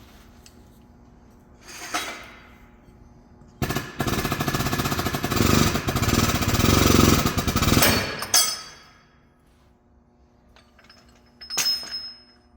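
Pneumatic shop air tool hammering in one rapid rattling run of about four seconds, with two shorter bursts of noise before and after it.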